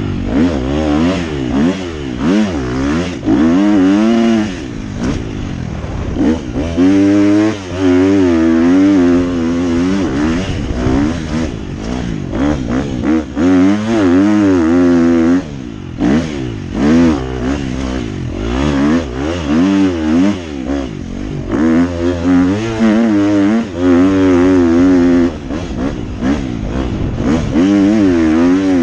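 Dirt bike engine revving hard, its pitch rising and falling over and over as the throttle works, with several short dips where the throttle is let off.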